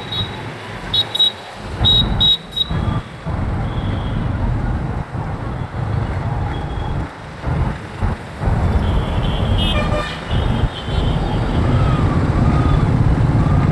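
Motorcycle riding through city traffic: a steady low rumble, with several short horn toots in the first few seconds and another horn about ten seconds in.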